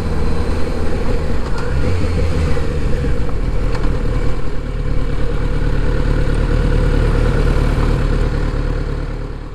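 Kawasaki Z900RS inline-four engine running steadily while riding, with wind and road noise over it; it fades out near the end.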